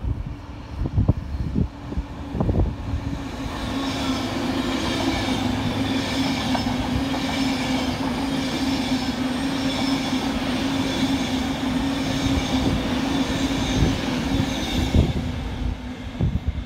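Class 390 Pendolino electric train running past the platform close by: a steady rush of wheels on rail with a steady hum, building about three to four seconds in and easing off near the end. Gusts of wind knock on the microphone at the start.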